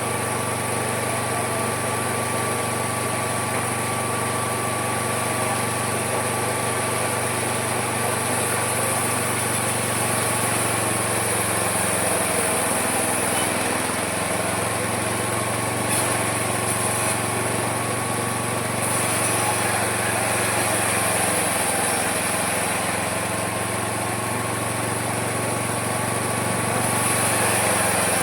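Homemade mini sawmill running steadily as it saws wood, its motor pitch sagging slightly twice under load in the cut.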